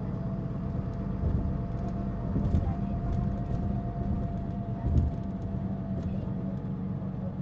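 Interior running sound of a Mitsubishi Fuso Aerostar city bus's diesel engine on the move, with a steady whine over the engine drone that fades out about five and a half seconds in. This bus is known for considerable abnormal noise. A few thumps from the road come through the body.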